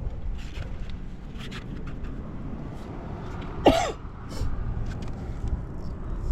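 Honda Live Dio scooter's 50cc two-stroke engine running steadily with a low rumble. A short, sharp sound falling in pitch cuts in briefly near the middle.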